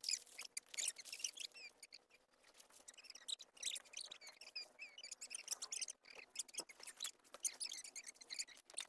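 Faint birds chirping, many short high calls in quick succession, with scattered small clicks and crackles.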